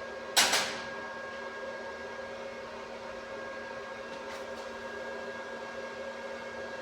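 A steady machine hum with several fixed tones, broken about half a second in by one sharp knock that dies away quickly, with a couple of faint clicks around four seconds in.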